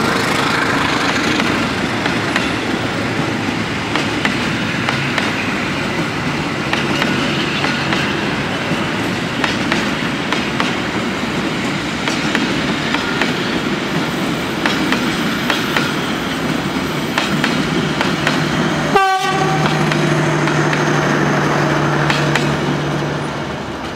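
Passenger train coaches rolling past at speed, a steady rumble of steel wheels on rail with quick clickety-clack from the rail joints. The sound fades near the end as the last coach passes.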